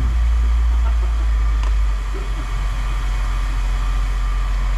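Steady low rumble of an idling engine, with a faint steady whine above it and a single light click about one and a half seconds in.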